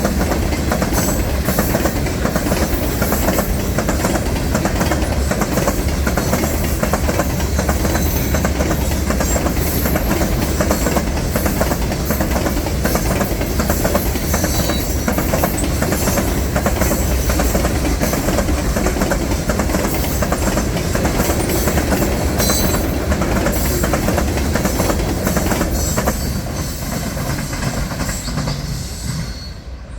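Freight train of loaded phosphate rock cars rolling past, steel wheels clicking over the rail joints in a steady clatter, fading away over the last few seconds.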